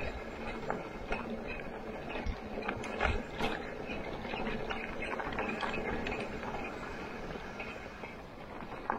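Wheels rolling over a rough, muddy dirt trail, with scattered knocks and rattles from bumps, the loudest a little after three seconds in.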